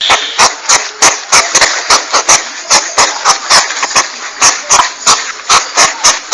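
Porcupine lure call: a rapid run of sharp clicks with a hissy edge, about four a second.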